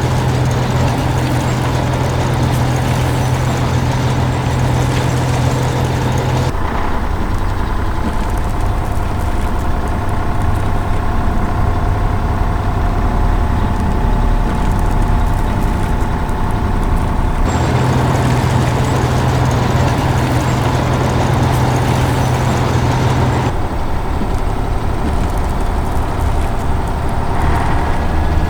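Heavy construction vehicle engine running steadily, as a cartoon sound effect. The sound switches abruptly three times between a deeper hum and a rougher, noisier running sound.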